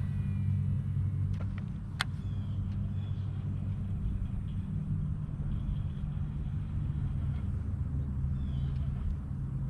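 A steady low motor rumble, with one sharp click about two seconds in.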